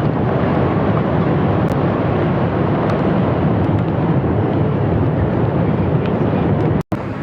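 Steady outdoor rumble of vehicle engines with wind noise on the microphone, broken by a brief cut to silence near the end.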